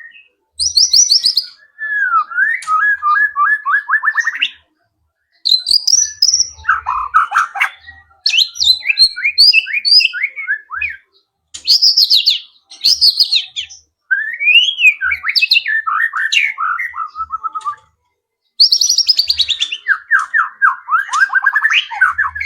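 White-rumped shama (murai batu) singing loud, varied phrases a few seconds long with short pauses between, full of rapid trills and sweeping whistled notes. The phrases are mimicry of other wild birds' songs worked into its own song.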